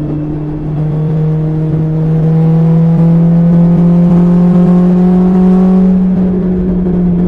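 BMW S1000XR's inline-four engine running through an Akrapovic exhaust, its note climbing slowly and steadily under gentle acceleration, then easing slightly near the end.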